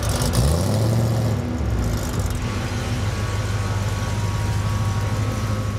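1970 Plymouth Cuda's 340 small-block V8 running: a quick rise in revs about half a second in, then a steady idle.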